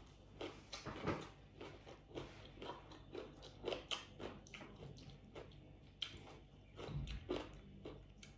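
Close-up eating sounds: chewing and mouth smacks in an irregular run of soft clicks, with fingers picking through papaya salad in a tray.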